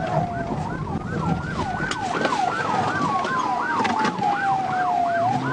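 Police sirens sounding during a pursuit: a fast yelp at about three sweeps a second and, at the same time, a slow wail that rises then gradually falls, over the patrol car's engine and road noise.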